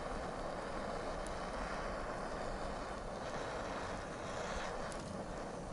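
Steady wind noise outdoors, rushing evenly, with two faint clicks.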